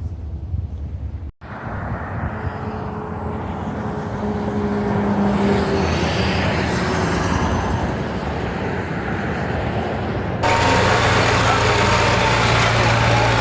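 Motor vehicle engine noise, building in level over several seconds after a short break about a second in. Near the end it switches suddenly to a louder, steadier engine sound.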